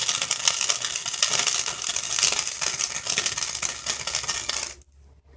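Wire-feed welder arc crackling steadily as a bead is run, then cutting off abruptly near the end. The welder was set on too low a voltage for the thick metal being welded.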